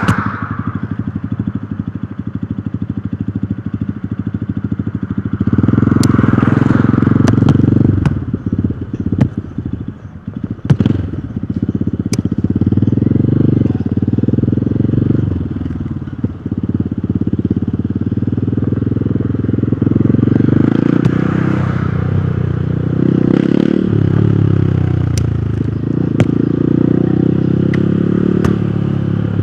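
Hero Hunk motorcycle's single-cylinder engine running on the road, its note rising and falling with the throttle. The level steps up about six seconds in, then drops and picks up again a few times.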